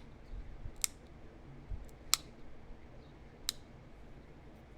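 Four sharp clicks of flakes snapping off a small heat-treated chert point under a copper-tipped pressure flaker, spaced about a second apart, the third the loudest.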